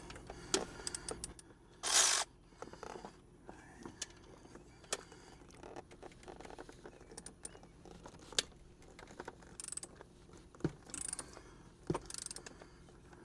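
Metal sockets and a ratchet wrench clinking and clicking in scattered knocks, with one short, louder rasp about two seconds in, while tight alternator mounting bolts are worked loose.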